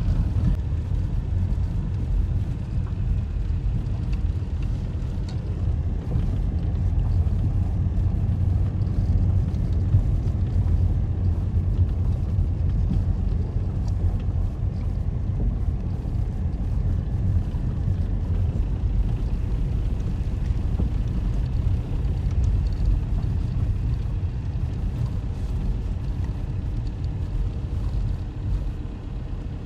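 Steady low rumble with no speech, heaviest in the bass and fading slightly near the end.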